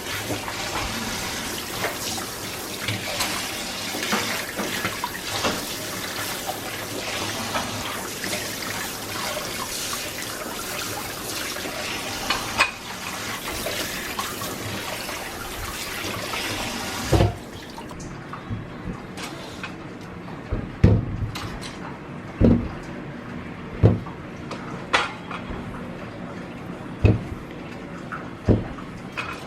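Tap water running steadily into a kitchen sink, shut off about 17 seconds in. It is followed by a string of separate knocks and clinks, about one every second or two.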